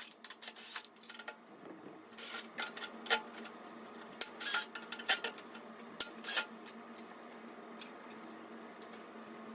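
Metal tools clinking and scraping on a scooter's screws as they are undone with a T45 Torx bit: irregular clinks and scrapes that stop about six and a half seconds in, leaving only a steady hum.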